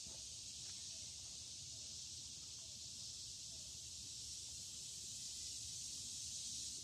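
Steady high-pitched hiss of an insect chorus in summer woodland, unchanging throughout.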